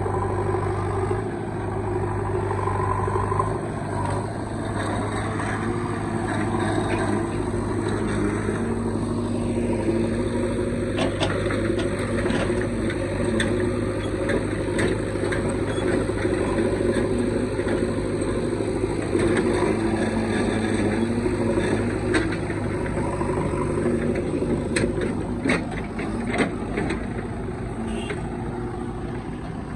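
Heavy diesel engine running steadily, its pitch shifting a little, with many sharp knocks and clanks from about ten seconds in.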